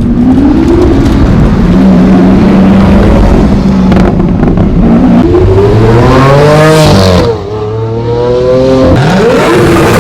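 Supercar engine accelerating hard: its note climbs steadily, drops sharply at a gear change about seven seconds in, then climbs again before it lifts off near the end.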